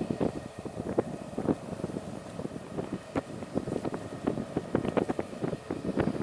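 Wind buffeting the camera's microphone: irregular crackling thumps over a low rumble.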